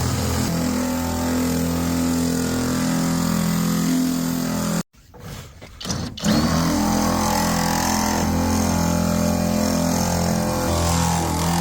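Electric drill with a 1/2 inch bit running steadily, drilling out a lock cylinder and its pins. It cuts out suddenly about five seconds in and runs again about a second later.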